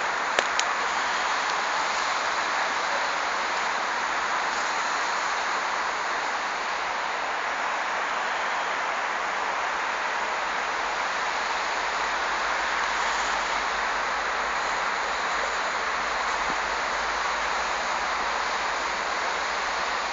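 Steady, even rushing hiss of outdoor noise, with a couple of faint clicks just after the start.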